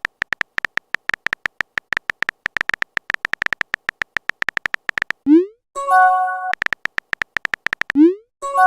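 Phone keyboard typing sound effect: a rapid run of short, bright ticks. Twice it is followed by a rising swoosh and a short chime of several notes, the sound of a message being sent.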